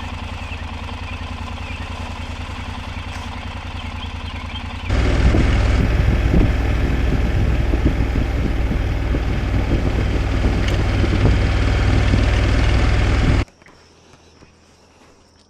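Honda NC750X motorcycle's parallel-twin engine idling with an even low pulse. About five seconds in it cuts to a louder, rougher stretch of the bike under way, which stops abruptly near the end, leaving faint outdoor background.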